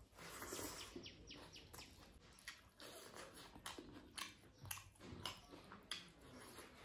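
Faint close-up mouth sounds of a person eating rice and omelette by hand: moist chewing with irregular lip smacks and small clicks, about three a second.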